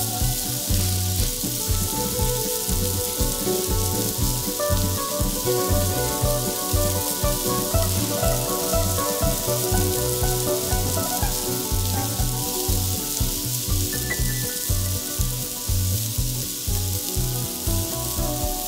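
Baby red potatoes and diced onion sizzling steadily in olive oil in a skillet, under background music with a steady beat.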